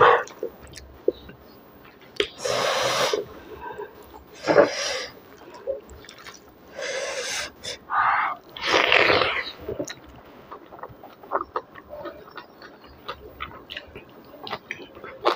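Close-miked eating sounds: wet chewing and lip-smacking as a mouthful of curried beef innards and rice, eaten by hand, is bitten and chewed. A few louder breathy bursts come in the first ten seconds, the loudest as a big handful goes in about nine seconds in, followed by a dense run of small wet clicks of chewing.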